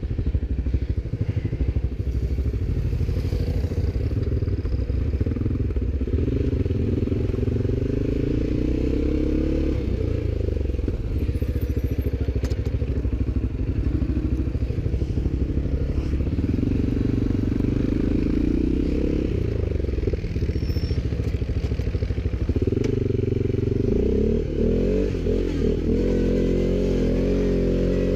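ATV engine running, its pitch rising and falling with the throttle, most clearly near the end.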